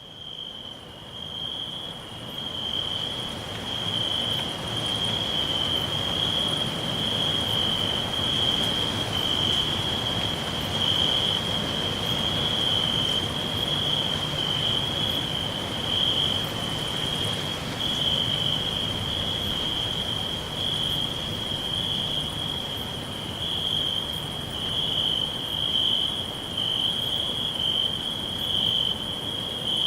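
Crickets chirping in a continuous, steady high trill, with a fainter, higher insect trill above it over a low background hiss. The sound swells up from quiet over the first few seconds.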